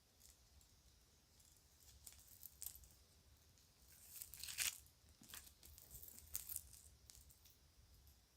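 Children's toy jewelry and a bag being handled: scattered light clicks and clinks, with a short crinkling rustle in the middle that is the loudest moment.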